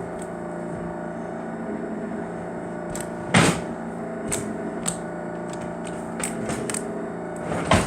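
Slime being poked and squished, giving scattered sticky clicks and pops, a loud pop about three and a half seconds in and another near the end, over a steady background hum.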